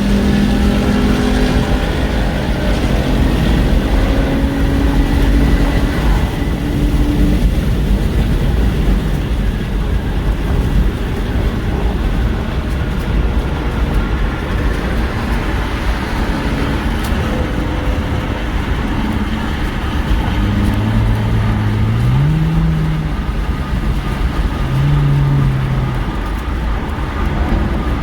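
2016 Ford Mustang GT's 5.0 V8 through a straight-piped, X-pipe, resonator-delete exhaust while driving, over a steady low road rumble. The engine note holds, then climbs in steps a few times in the last third as it pulls.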